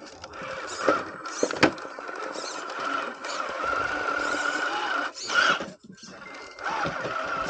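Electric motor and drivetrain of an RC rock crawler truck whining steadily under load as it crawls over terrain, with a few sharp knocks. The whine cuts out briefly near the end and then starts again.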